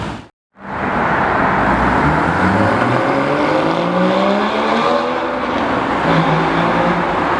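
Sports car engine accelerating hard, its revs climbing steadily for a few seconds, then falling back and holding steady near the end.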